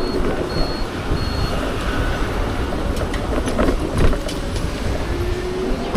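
Wind buffeting the microphone and passing road traffic during a ride on a Bajaj Chetak electric scooter, with a few light clicks in the middle and a faint steady tone near the end.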